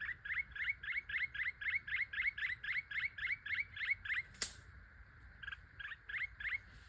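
Small bird chirping rapidly, about four short rising chirps a second. A sharp click sounds about four and a half seconds in, after which the chirps come only now and then.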